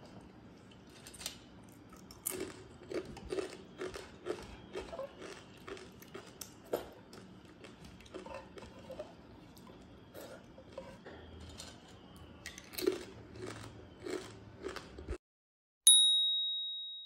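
Close-up eating sounds of water rice eaten by hand: irregular wet chewing, smacking and crunching with small clicks. After about fifteen seconds these stop abruptly, and a single bright electronic ding rings out and fades.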